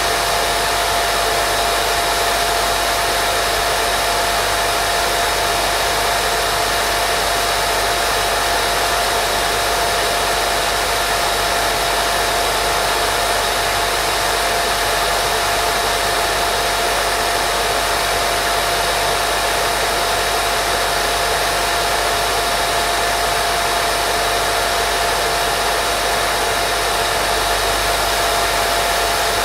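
Steady white noise for baby sleep: an even, unbroken hiss with a thin steady mid-pitched tone running through it.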